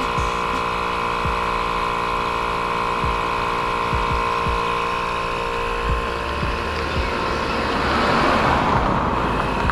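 Milwaukee cordless air pump running steadily, inflating a truck's airbag suspension toward 45 psi. A rush of noise builds about seven seconds in and fades near the end.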